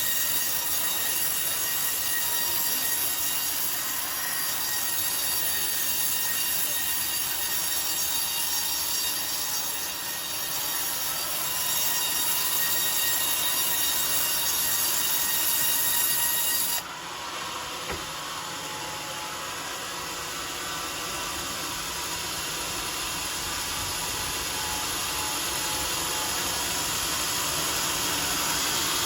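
Sawmill circular saw blade running through a coconut-palm log, a steady high-pitched whine over the noise of cutting. About two-thirds of the way through, the highest part of the whine stops suddenly and the sound drops a little.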